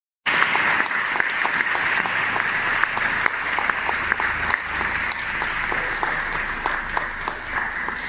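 Studio audience applause: a crowd clapping steadily, starting abruptly after silence.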